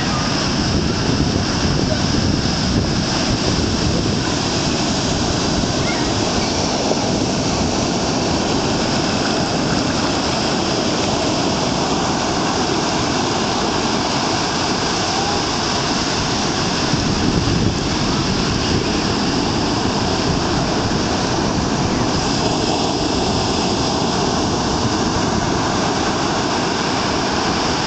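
Heavy hurricane-driven surf breaking on a sandy beach: a continuous, even wash of waves with no distinct single crash standing out.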